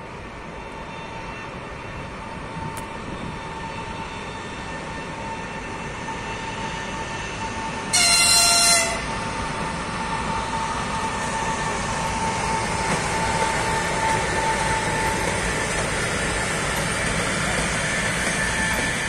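EP20 electric locomotive and its passenger coaches rolling into the station, the rolling noise growing steadily louder as the train draws level. About eight seconds in the locomotive's horn gives one short blast, the loudest sound. A thin steady whine runs under the rolling noise until about fifteen seconds in.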